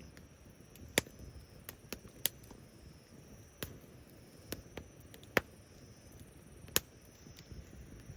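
Wood fire crackling: sharp pops and snaps at irregular moments, a few much louder than the rest, over a low steady rumble of burning.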